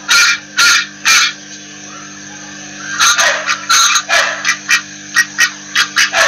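Mallard quacking: three loud quacks in the first second or so, a short lull, then a fast, uneven run of quacks from about three seconds in, over a steady low hum.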